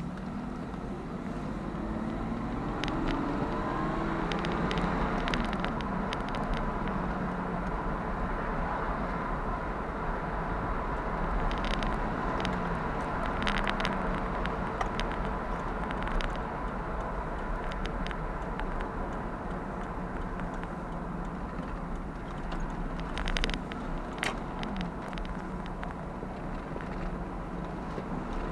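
Jaguar V12 engine running, its pitch rising and falling repeatedly as the revs change, with scattered light clicks over the engine note.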